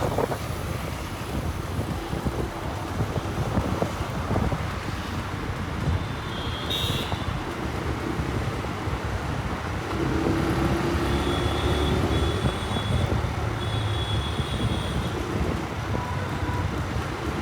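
Raider motorcycle's engine running on the move, with road and wind noise and passing traffic around it; a short high-pitched beep sounds about seven seconds in.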